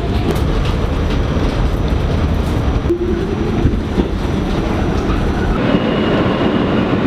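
Subway train running: a loud, steady rumble of wheels on rails, with thin whining tones, one of them rising about three seconds in.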